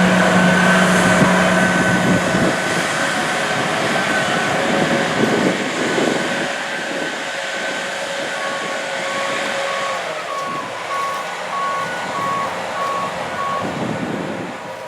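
Large combine harvester's diesel engine running steadily, with a backup alarm beeping repeatedly for about five seconds in the second half.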